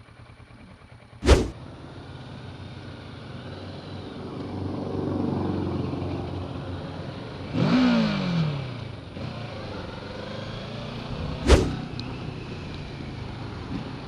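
Kawasaki Versys 650 parallel-twin engine and surrounding road traffic heard from a helmet-mounted camera while riding. The engine note swells in the middle and drops sharply about eight seconds in. Two sharp clicks come about a second in and about three quarters of the way through.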